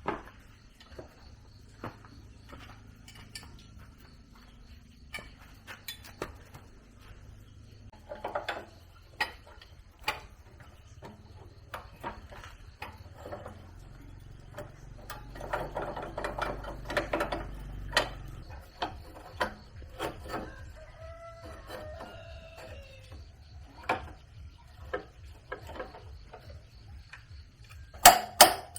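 Scattered clicks and metallic clinks of hand work, denser for a few seconds in the middle, with a rooster crowing once about two-thirds of the way in and a few loud knocks near the end.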